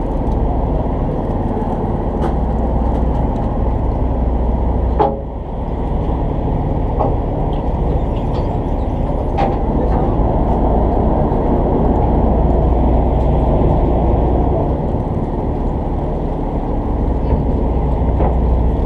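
Steady low drone of a fishing boat's engine running, with a sharp click about five seconds in.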